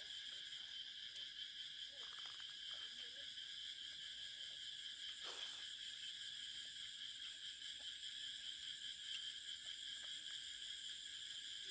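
Steady chorus of insects, a continuous high buzzing trill, with a short rustle about five seconds in.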